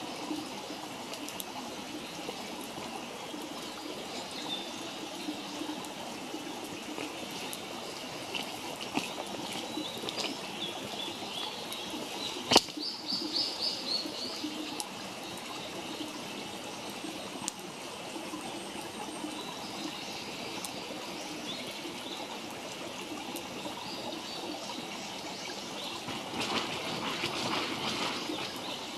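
Wood campfire crackling steadily with scattered small pops, and one sharp loud pop about twelve seconds in. Birds chirp in the background.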